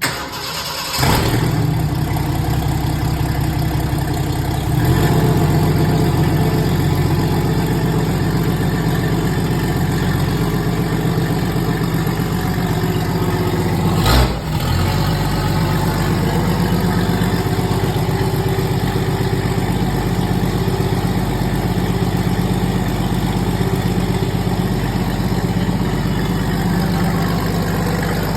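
Old Jeep engine starting for the first time during its restoration: it cranks briefly, catches within about a second and settles into steady running. It picks up speed about five seconds in, and a single sharp crack sounds about fourteen seconds in.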